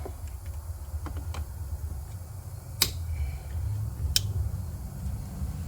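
A few sharp metallic clicks as a wire is worked onto a car battery terminal, two of them louder about a second and a half apart, over a steady low rumble.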